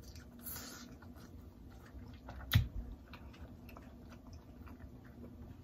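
Close-up chewing of a mouthful of seafood boil: soft, wet mouth clicks and smacks. One sharper smack comes about two and a half seconds in.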